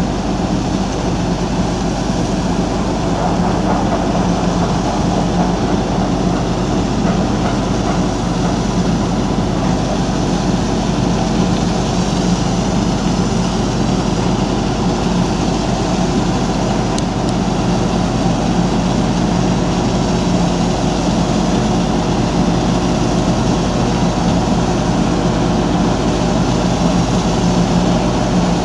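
A heavy diesel engine running steadily at constant speed, with a low, even drone.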